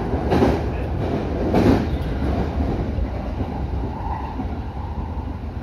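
JR Kawagoe Line electric train running, heard from the driver's cab: a steady rumble of wheels on rail, with two louder clatters in the first two seconds.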